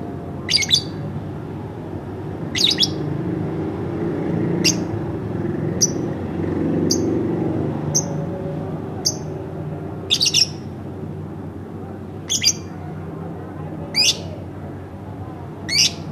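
Pet lovebird giving short, sharp, high-pitched chirps, about eleven of them spaced one to two seconds apart, over a low steady background hum.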